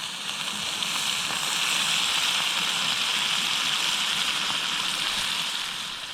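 Chicken and vegetables sizzling in a frying pan: a steady hiss that builds over the first couple of seconds and eases off near the end.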